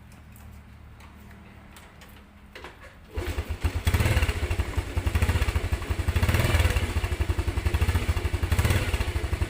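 Yamaha Vega motorcycle's small single-cylinder four-stroke engine starting about three seconds in, then running with a few brief revs, with a turbo whistle held by hand at the end of its stock exhaust. Before it starts there are only a few faint clicks.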